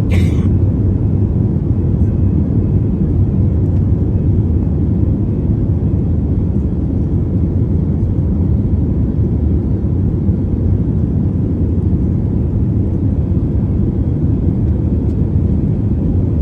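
Airbus A321 jet engines at takeoff power: a steady, even low rumble, with a short burst of hiss right at the start.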